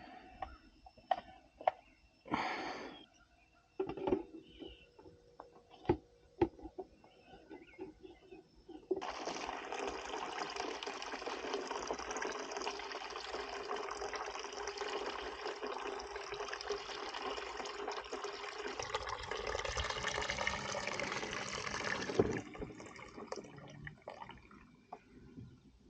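A steady stream of liquid pouring for about thirteen seconds, starting about nine seconds in and stopping sharply near the end, after scattered light knocks and clicks.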